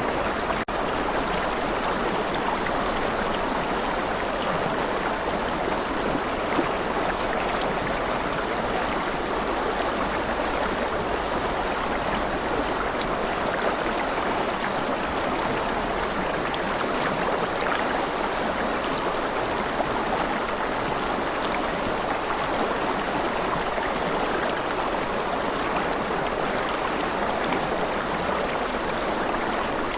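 Rushing river water flowing over rocks: a steady, even rush of running water.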